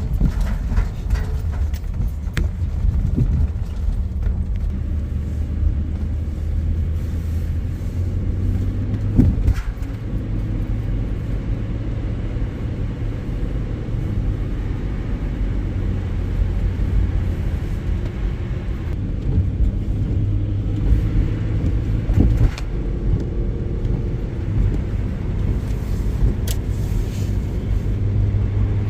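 Car driving: a steady low rumble of engine and road noise, with a few sharp clicks along the way.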